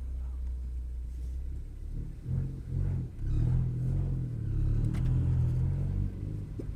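Big-turbo 2018 Ford Focus ST engine idling low, then revving up about two seconds in as the car pulls away, and running louder under light throttle.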